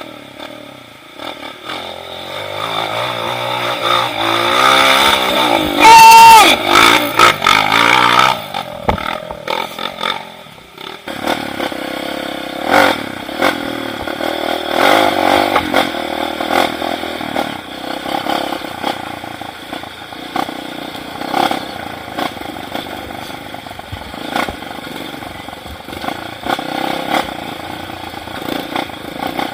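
Trail motorcycle engine revving hard, its pitch climbing and dropping in the first ten seconds and loudest about six seconds in, then running on unevenly at lower revs.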